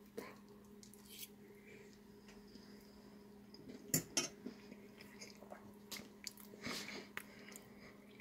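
Faint chewing of a bite of chicken and corn casserole, with scattered clicks of a utensil against the glass baking dish, the two loudest about four seconds in. A steady low hum runs underneath.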